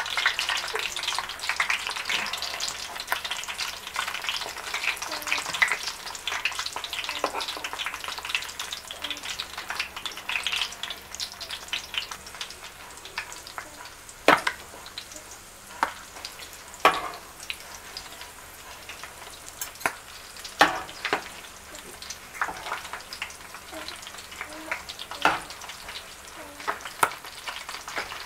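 Chimichangas sizzling and crackling as they shallow-fry in hot oil in a pan, the sizzle loudest at the start and easing off. A few sharp clicks stand out as a metal spatula and fork turn them in the pan.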